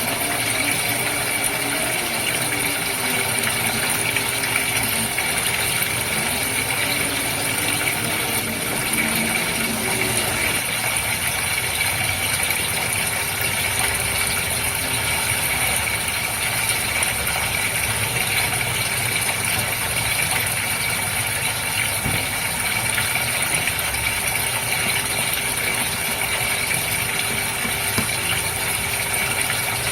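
Goldfish tank water bubbling and trickling steadily, with a constant motor hum underneath.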